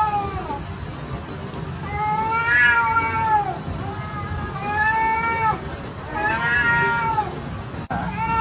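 A cat yowling: a string of long, drawn-out meows, each rising and then falling in pitch, about four in a row, over a steady low background noise.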